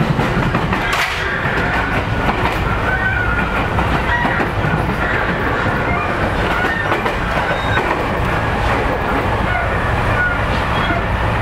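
Electric passenger train running on the Narita Line, heard from inside the carriage: a steady rumble of wheels on track, with brief high squeaks from the wheels here and there.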